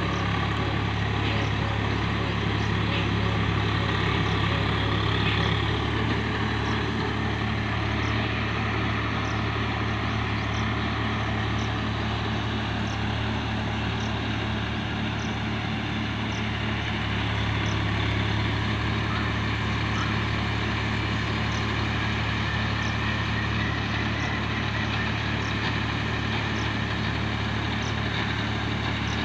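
Steady low motor drone, like a vehicle running, with faint regular ticking a little more than once a second.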